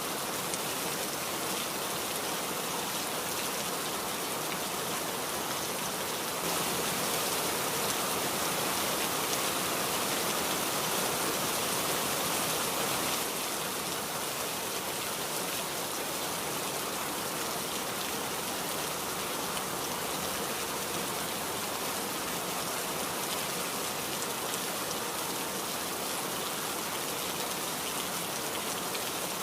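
Steady rain falling, a dense, even hiss with no breaks. It grows a little louder for several seconds about a quarter of the way in, then settles back.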